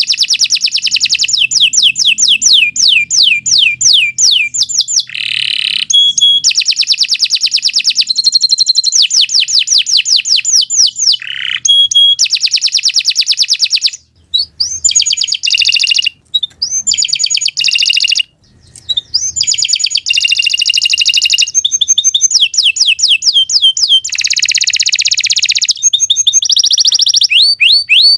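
Domestic canary singing a long, continuous song: rapid trills of repeated downward-sweeping whistled notes, mixed with held notes, in phrases with only brief breaks.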